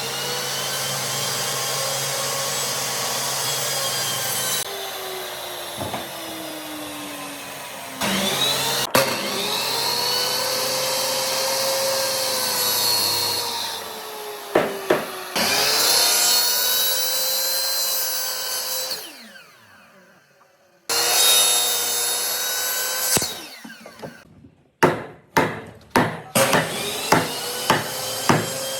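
An electric power tool's motor running on wood, its pitch dipping and recovering as it is loaded. It winds down, starts up again, and near the end gives way to a run of sharp hammer blows, about two a second.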